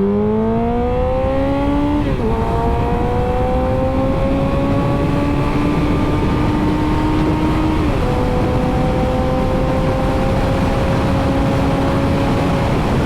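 Sport motorcycle engine accelerating hard through the gears, its pitch climbing, dropping sharply at two upshifts about two seconds in and near the eight-second mark, then climbing again, with wind rushing louder as speed builds.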